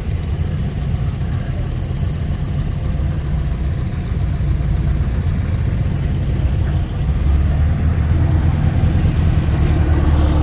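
Classic Volkswagen engine running with a low, steady rumble as a car rolls in, growing louder about seven seconds in.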